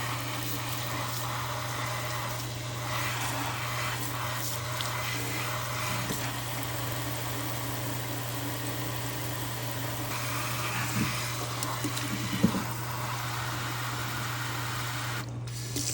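Kitchen tap running steadily into a sink, over a steady low hum, with a brief knock about twelve seconds in.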